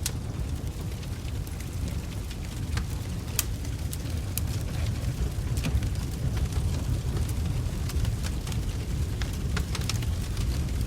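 Wood logs burning in a fireplace: a steady low rush of flames with irregular sharp crackles and pops from the burning wood.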